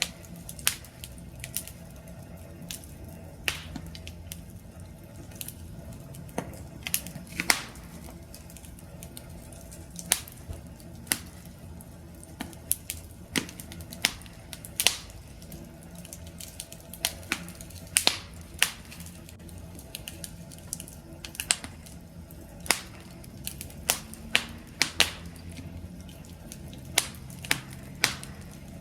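Wood fire crackling: irregular sharp pops and snaps, some much louder than others, over a low steady rumble of the burning fire.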